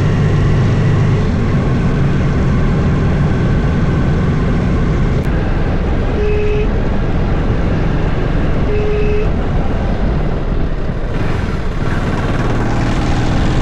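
Steady rumble of a vehicle travelling on a paved road, engine and road noise together, with two short horn beeps about two and a half seconds apart near the middle.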